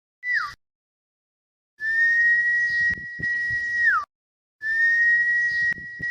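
Male common iora singing: long, level whistled notes held for about two seconds, each ending in a quick drop in pitch. A short falling whistle comes near the start, and a few sharp clicks sound over the whistles.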